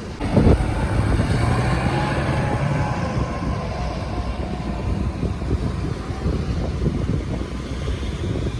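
Vehicle engine revving on a boat launch ramp, a tow vehicle labouring after getting stuck. It surges loudly about half a second in, then settles into a steady drone.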